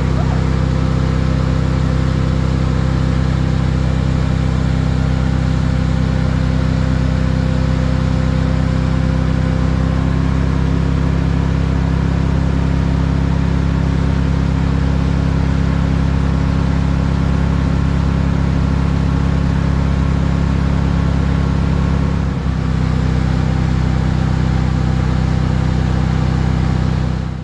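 Maxum 2500 SCR cuddy cabin boat's sterndrive engine running steadily while cruising, its tone shifting slightly about ten seconds in and dipping briefly a little past twenty seconds in.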